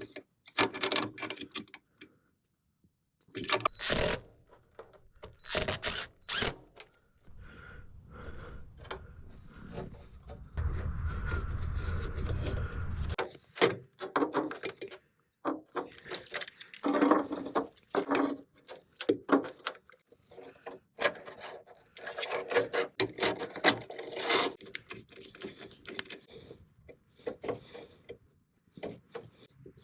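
Hand work on exhaust mounting hardware: repeated clattering, clicking and scraping of metal parts and tools. A short steady run of a small motor about eleven seconds in.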